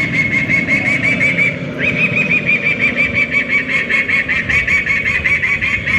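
An airport bird-repeller loudspeaker plays a rapid, regular train of chirping bird calls, about six a second, with a brief break near two seconds in, over a low rumble.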